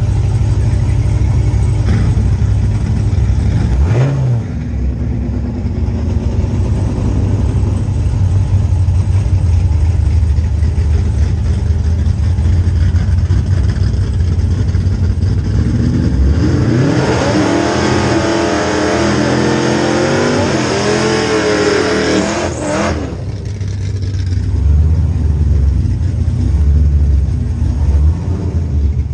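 Cadillac CTS-V's V8 idling with a steady low rumble while rolling through the drag-strip lanes, with a short rev about four seconds in. About midway a much louder engine revs hard for around six seconds, its pitch wavering up and down, then cuts off sharply.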